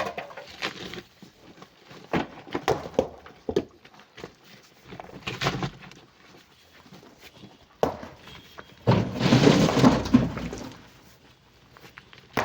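Chunks of rock and coral knocking and clattering as they are loaded into a truck: a string of separate sharp knocks, then a longer crashing pour of material about nine seconds in.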